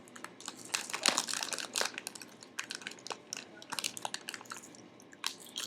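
Crinkling and crunching of crisp snacks and their packaging being handled and eaten: a dense run of sharp crackles, thickest about a second in and again around four seconds in.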